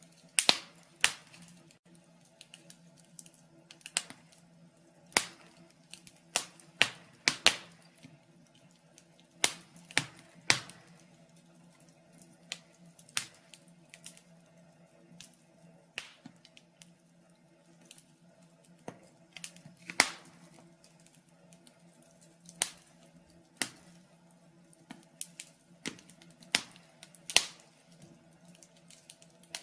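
Wood fire in a fireplace crackling, with irregular sharp pops and snaps roughly once a second over a faint steady low hum.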